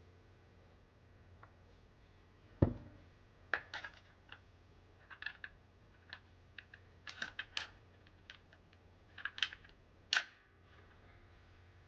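Handling and fitting the parts of a PPSh-41 submachine gun: one heavy knock about two and a half seconds in, then a run of short, sharp clicks and clacks.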